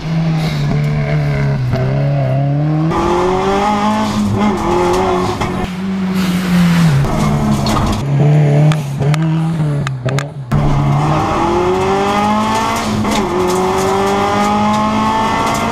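Subaru Impreza WRX STI rally car's turbocharged flat-four engine revving hard at racing speed. Its pitch repeatedly climbs and drops as it shifts gears, with a sudden short break near the middle, followed by long rising pulls through the gears.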